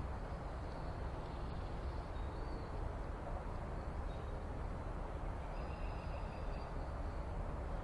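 Steady low outdoor rumble with a few faint bird calls, short high chirps a couple of seconds in and a longer one just past the middle.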